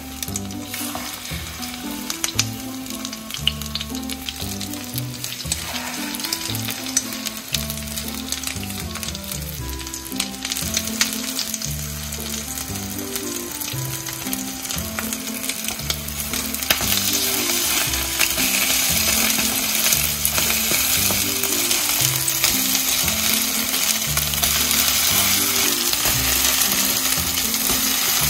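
Oyster-mushroom and egg pancakes sizzling in oil in a frying pan, with a metal spoon clicking against the pan in the first few seconds. The sizzle grows louder about two-thirds of the way through.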